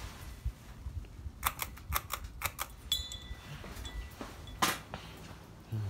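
Ceiling fan pull-chain speed switch clicked several times in quick succession, the chain jingling, as the fan is switched to high speed. A steady low whoosh of the running fan sits underneath.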